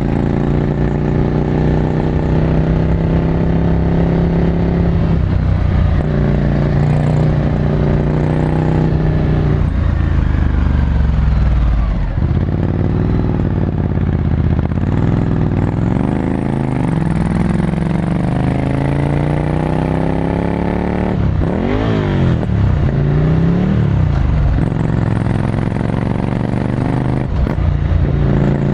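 Ducati Scrambler Desert Sled's air-cooled L-twin running through a full Termignoni exhaust while being ridden. The engine holds a steady pitch for several seconds, then falls and rises repeatedly as the throttle is closed and opened through gear changes, with a quick sharp rev up and down about two-thirds of the way through.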